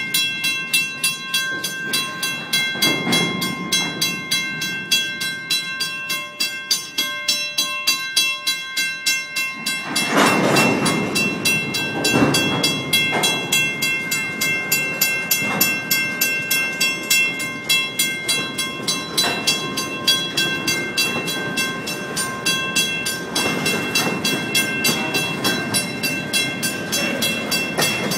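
Union Pacific train moving slowly along the track: a quick, regular clicking of wheels over the rails, with steady high-pitched tones running under it. The sound gets louder about ten seconds in.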